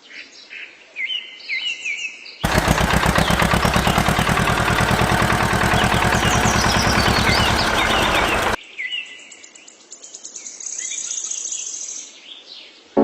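Birds chirping, broken by about six seconds of a loud, very fast, even rattle that starts and stops abruptly, with the chirping still faintly audible under it.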